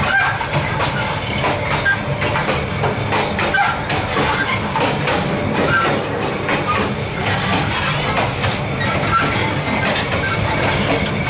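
Passenger train wheels running on the rails, heard through the open gap between two carriages: a steady rumble with frequent clicks and knocks and short high metallic squeaks here and there.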